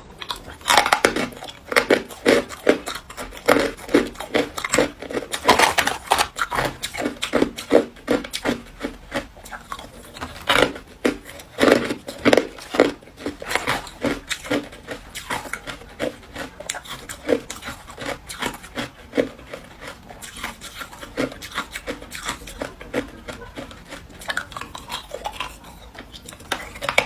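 Ice being bitten and crunched between the teeth: a dense run of irregular cracking crunches, heavier in the first half and thinning toward the end.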